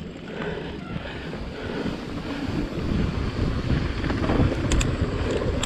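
Wind buffeting a GoPro's microphone while riding a mountain bike at speed, over the low rumble of tyres on a dirt trail and the bike rattling. A few sharp clicks come near the end.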